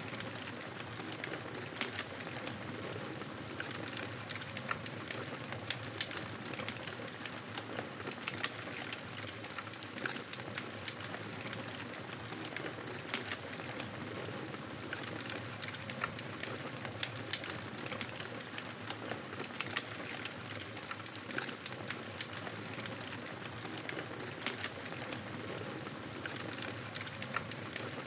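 Wood fire crackling: frequent irregular sharp pops and snaps over a steady soft hiss of burning.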